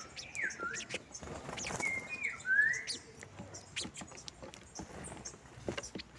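A flock of saffron finches chirping while they feed, with many short high chips and several slurred whistled notes in the first three seconds.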